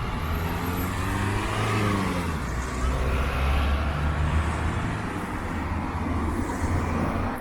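Street traffic: a car's engine running close by, a steady low rumble whose note rises and falls about two seconds in.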